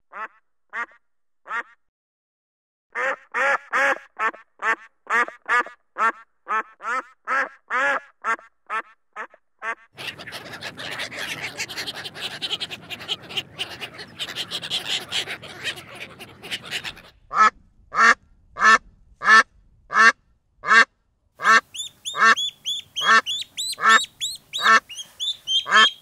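Ducks quacking in runs of short calls, about two a second. In the middle there is a stretch of dense, overlapping flock chatter. Near the end, high thin peeping of ducklings joins the quacks.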